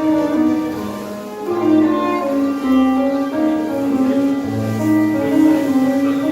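Tango music played live by a small ensemble, a sustained bowed-string melody over piano and a bass line.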